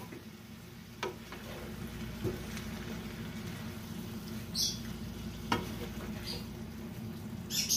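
Beef and vegetable stir-fry sizzling in a pan just after the sauce goes in, stirred with a wooden spoon, with a few short knocks of the spoon against the pan.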